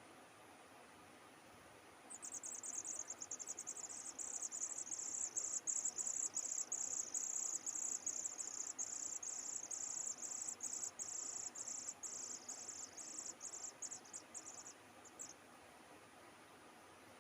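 An insect trilling: a high, rapidly pulsing buzz that starts about two seconds in, runs steadily for some thirteen seconds and breaks off near the end.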